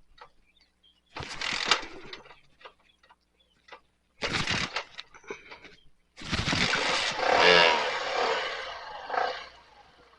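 Motorcycle engine running in three short spells, the last and longest rising and falling in pitch as it is revved.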